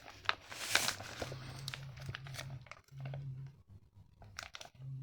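A boxed firework cake being handled: its cardboard and plastic wrapping crinkles and rustles, with light clicks and knocks.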